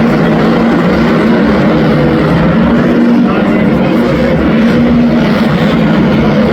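Supercross dirt bikes racing around a stadium track, their engines running loud and steady with a wavering pitch.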